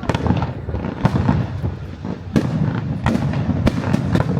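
Aerial fireworks bursting in a dense display: sharp booms about once a second over a continuous rumble, with smaller crackles between them.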